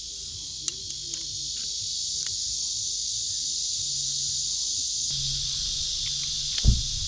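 Rain falling steadily, a continuous high hiss with a few sharp drop taps in the first seconds and one louder knock near the end.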